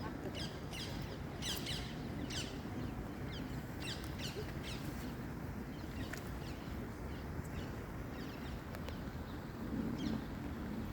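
Small birds calling with many short, high-pitched chirps that sweep downward, thickest in the first half and sparser later, over a steady low background rumble.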